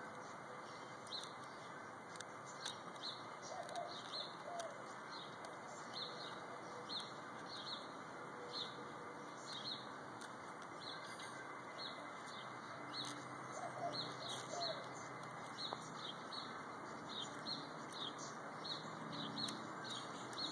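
A small bird chirping over and over, short high chirps at about two a second, over a steady background hiss.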